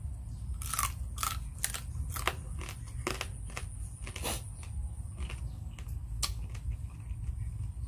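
Close-up mukbang chewing of Khmer crab salad: a run of sharp crunches and clicks, thickest in the first few seconds and sparser later, over a steady low rumble.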